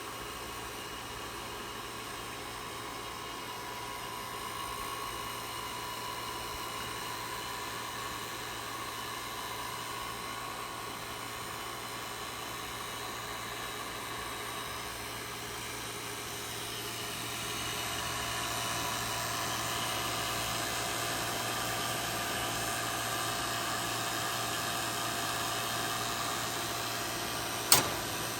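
HVAC vacuum pump running steadily, pulling a vacuum on an air-conditioner line set and indoor coil through the gauge manifold. It gets somewhat louder about two-thirds of the way through, and a single sharp click comes near the end.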